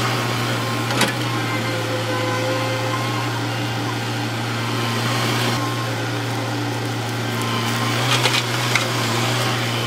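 Heavy earthmoving machinery's diesel engine running with a steady low hum, with a sharp knock about a second in and a quick cluster of clanks near the end.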